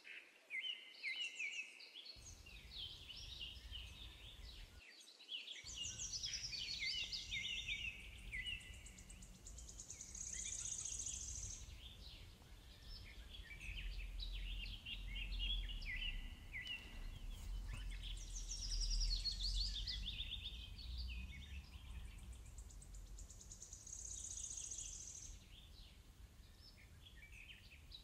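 Birdsong: several birds chirping and trilling over one another, with a high, buzzy trill twice, over a faint low rumble.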